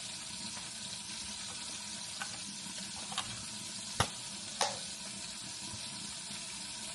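Steady sizzle of food frying in hot oil on the stove, with a few light clicks of kitchenware and a sharper clink about four seconds in.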